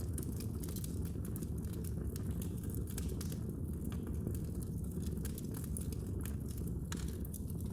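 Fire burning in a fireplace: a steady low rumble under frequent, irregular sharp crackles.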